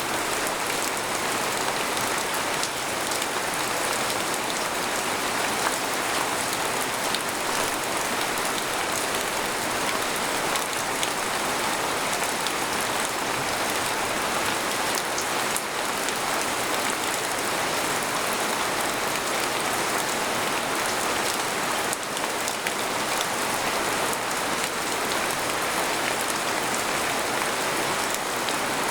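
Steady rain falling on a tent, a dense even hiss with many small drop ticks.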